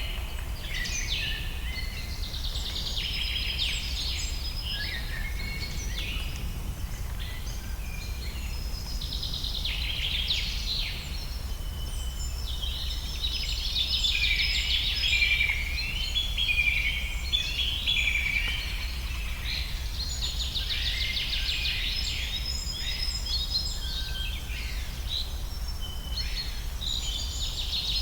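Several wild birds singing and calling at once in a dense, overlapping chorus of chirps and trills, over a steady low rumble.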